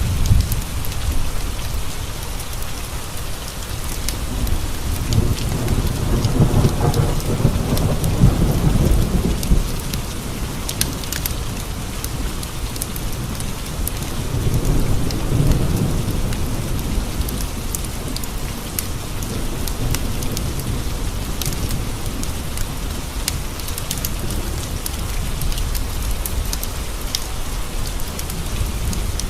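Steady heavy rain, with thunder rumbling low twice, the first swelling about five seconds in and the second about halfway through. Scattered sharp ticks run over the rain.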